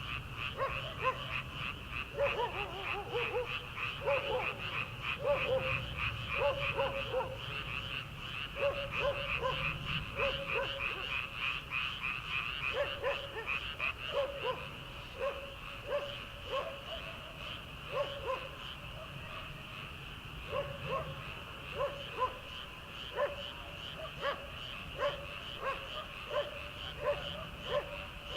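Chorus of many frogs calling from rice paddies: a dense, steady high-pitched pulsing trill from many calling together, with lower, deeper croaks from other frogs repeating at irregular intervals throughout.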